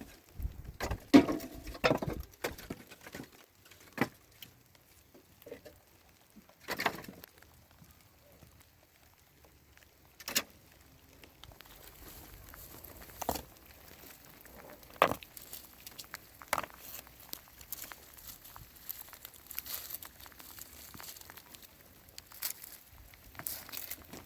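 Plastic bags rustling and crinkling as they are handled, in scattered short bursts with a few taps and knocks, busiest in the first few seconds.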